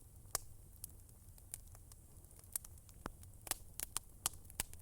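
Fireplace crackling: irregular sharp pops and snaps over a faint low rumble.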